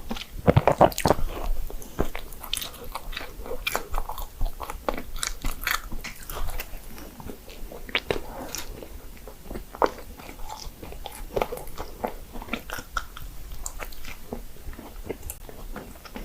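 Close-miked chewing and biting of doughnuts: a steady stream of quick mouth clicks, loudest over the first couple of seconds, then softer.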